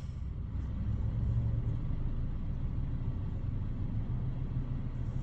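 Steady low rumble of an idling car, swelling slightly about a second in and then holding.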